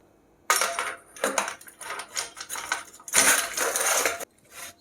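A metal bicycle rear rack being fitted onto the bike: clattering and scraping of metal parts in several short bursts, with a longer rubbing scrape of about a second near the end.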